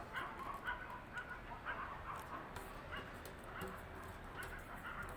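Faint dogs barking and yipping over and over, several short barks a second, with light crackles of paper being creased by hand.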